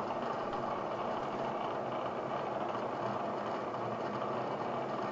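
Steady, even machine running noise with no distinct knocks or changes.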